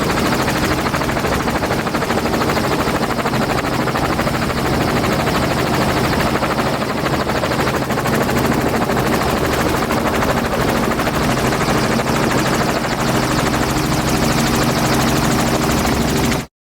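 Dirt bike engine running steadily at speed, with a rush of noise over it; it cuts off suddenly near the end.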